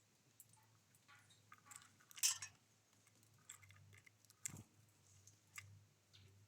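Faint, scattered pecking and clicking from small birds at a feeder, with one louder rustle about two seconds in and a sharp click in the second half.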